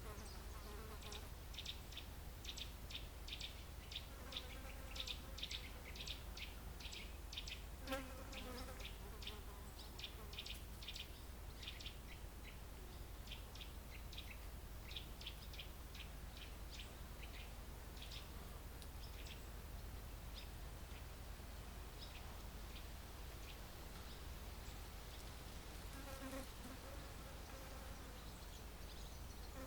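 Suburban woodland ambience: a rapid series of short, high chirps, about three or four a second, fading out after about twenty seconds, over a steady low rumble of distant highway traffic.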